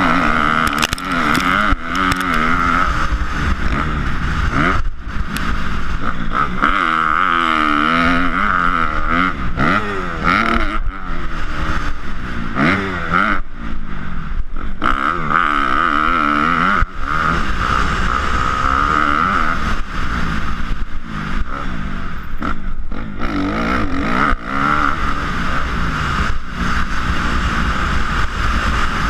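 Motocross dirt bike engine revving hard and easing off again and again as it is ridden, its pitch rising and falling every second or two, with a few short knocks.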